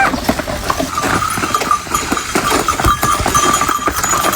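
Horse-drawn cart loaded with corn on the move: a horse's hooves clopping and the cart knocking and rattling. From about a second in, a steady high-pitched tone rides over it.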